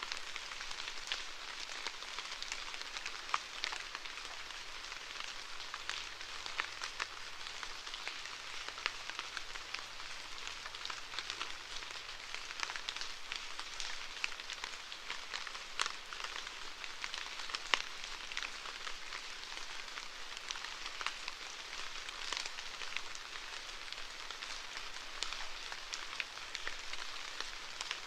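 Steady rainfall: an even hiss with many individual drops ticking through it.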